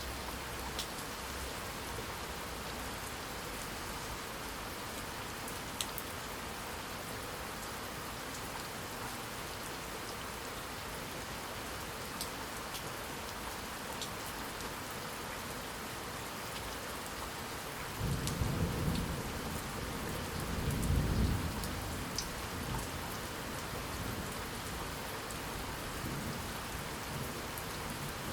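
Steady heavy rain falling, with scattered drop ticks. About two-thirds of the way in a roll of thunder breaks in suddenly as a low rumble, swells a second time and dies away over several seconds.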